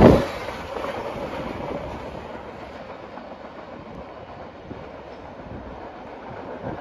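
Train passing on the rails with wheel clatter; the loud close passing noise drops off sharply right at the start, leaving a quieter rumble that slowly fades as the train recedes.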